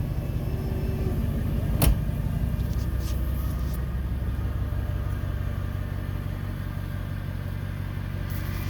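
Mercedes-Benz E63's M156 6.2-litre V8 idling steadily after a cold start, its cam adjusters fitted with new repair plates. A single sharp click about two seconds in.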